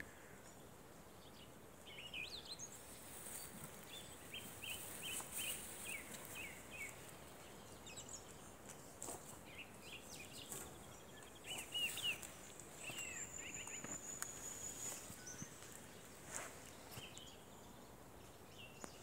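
Small birds chirping on and off, with a fast high trill about thirteen seconds in, over faint clicks and rustling.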